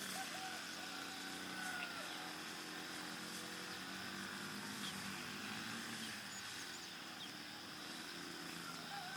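An engine running steadily, with a few short chirping calls and a steady high hiss behind it.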